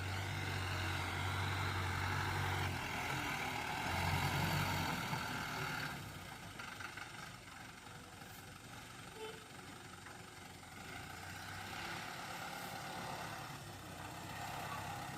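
Heavy vehicle's diesel engine running steadily, louder for the first five seconds and then quieter.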